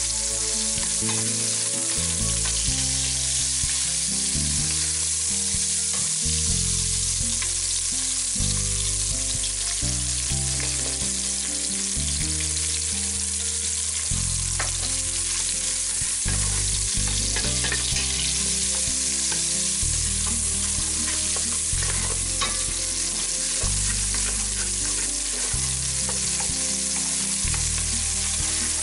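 Chopped onions and tomato paste frying in oil in a stainless steel pot: a steady sizzle, with a wooden spatula stirring through it.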